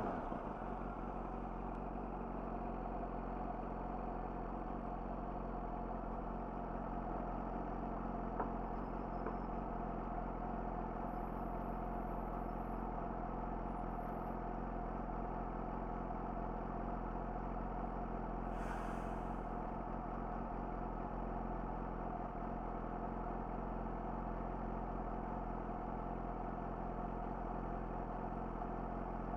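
Yamaha YZF-R6's inline-four idling steadily through an Akrapovic slip-on exhaust after the revs have dropped, with a brief hiss about two-thirds of the way through.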